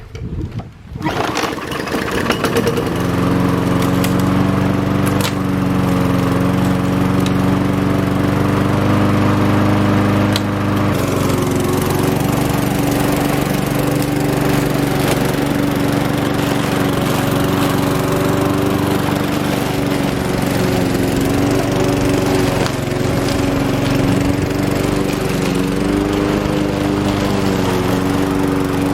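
Macallister petrol lawn mower engine starting after fresh fuel and priming. It catches within the first couple of seconds and then runs steadily. Its note shifts about eleven seconds in.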